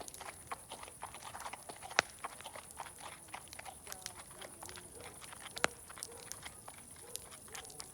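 Wood fire crackling, with irregular small pops and two sharp loud ones about two and five and a half seconds in, over a steady high hiss.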